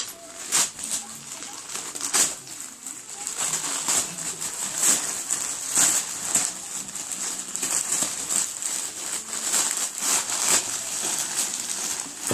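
Christmas wrapping paper being torn and crinkled off a present: an irregular run of sharp rips and rustles, about one every half second to second.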